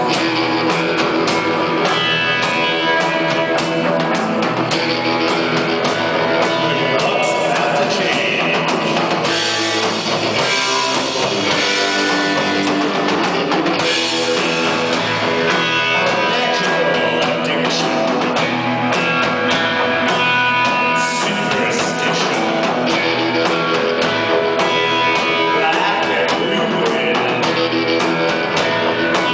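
Rock band playing live: guitar and drum kit going at a steady, loud level.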